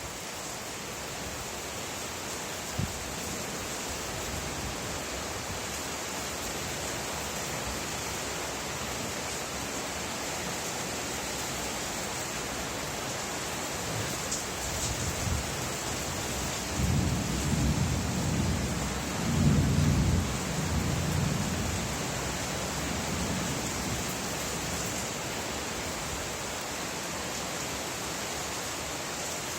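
Steady rain falling, with a roll of thunder that builds about halfway through, rumbles loudest for a few seconds and dies away.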